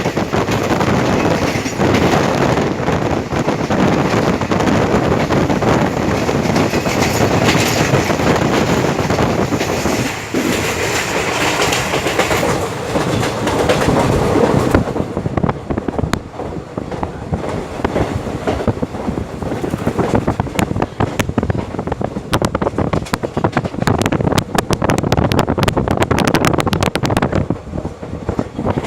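Train running on the rails with a loud rushing noise. About halfway through the rush thins out and the wheels' clicking over the rail joints comes through more clearly, growing rapid near the end.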